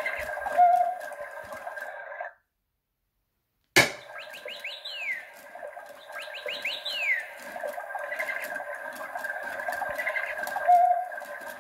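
Toy parrot's electronic bird calls played through its small speaker, thin with no bass. The sound cuts out for about a second and a half, comes back with a click, and then plays two runs of quick sweeping chirps.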